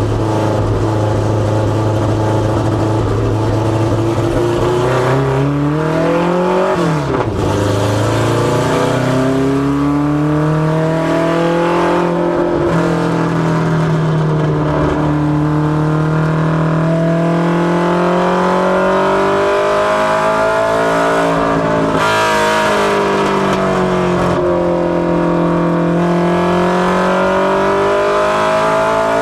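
Mustang LX notchback ministock race car's engine under load on practice laps around an oval. The revs climb and hold high along the straights, dropping back briefly about seven seconds in and twice more near the end as the driver lifts off, then pulling up again.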